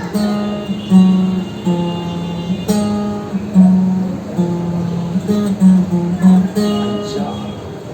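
Acoustic guitar playing a simple repeating phrase of single plucked notes on two or three close low pitches. This is the beginner's lesson-one tune, 5-4-3 (pa-ma-ga).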